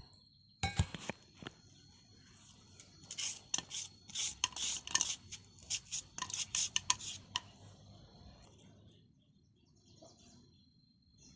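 Kitchen utensils clinking against a dish: two or three sharp knocks about a second in, then a run of quick clinks for about four seconds starting about three seconds in.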